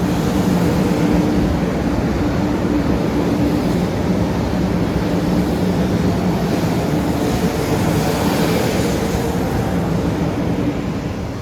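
Shinkansen train moving along the platform: a loud, steady rush of wheels and air over a low motor hum, beginning to die away near the end.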